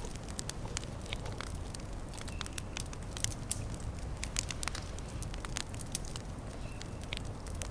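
Small campfire crackling, with irregular sharp pops and snaps over a steady low rumble.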